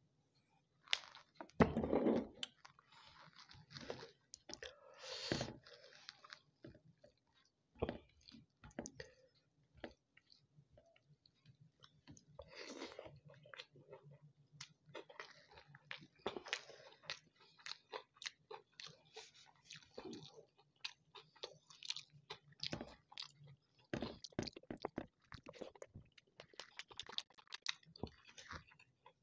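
Close-up mouth sounds of eating by hand: irregular chewing, wet smacks and crunchy bites on chicken and nan. A louder thump comes about two seconds in.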